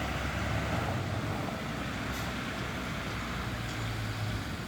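Diesel dump truck engine running steadily at low revs.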